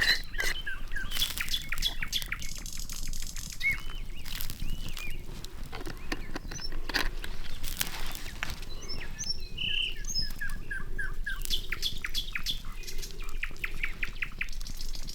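Forest birds chirping and calling in short phrases over the sharp crackles and pops of a wood campfire, with a quick run of crackles near the end.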